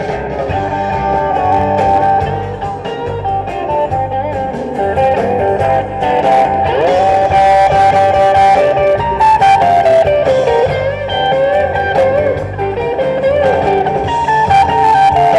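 Rock and roll band playing an instrumental break: a lead guitar solo with bent notes over bass and drums.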